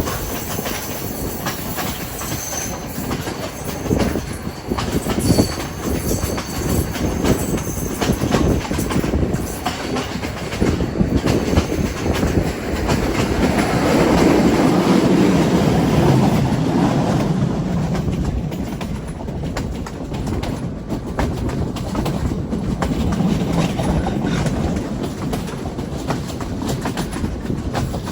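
Train running along the rails with a continuous rumble and a rapid clickety-clack of wheels over the track. Thin high wheel squeal is heard in the first several seconds. The low rumble swells for a few seconds around the middle.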